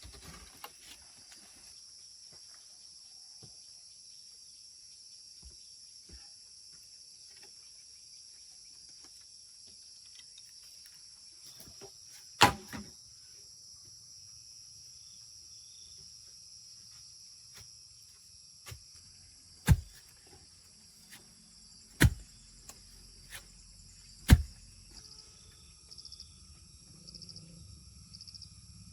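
Crickets or other insects chirping steadily in a high chorus, with a quick pulsing chirp near the end. Four sharp, loud knocks come about midway and later, over a low rumble.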